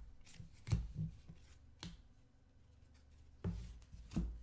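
Trading cards being handled, with a few soft taps and thumps as cards are flipped and set down on the table.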